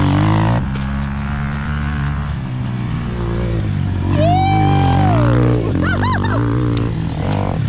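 Yamaha TT-R trail motorbike's single-cylinder four-stroke engine running, its revs stepping up and down. A person's long cheering call about four seconds in is followed by short high calls a second later.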